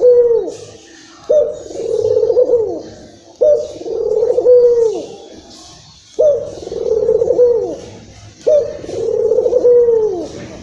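A puter (Barbary dove) cooing repeatedly, four coos about two to three seconds apart. Each coo opens with a sharp note, holds a low rolling tone, and ends with a drop in pitch.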